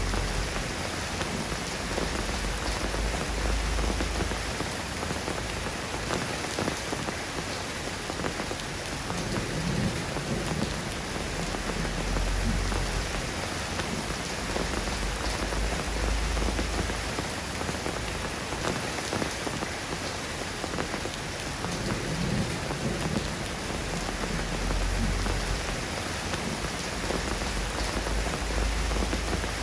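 Steady rain falling on a surface, an even hiss of many drops. Low distant thunder rumbles swell up three times: near the start, in the middle and near the end.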